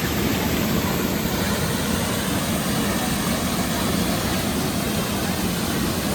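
Steady roar of water pouring down Puli Aruvi (Tiger Falls), a waterfall, with no change in level.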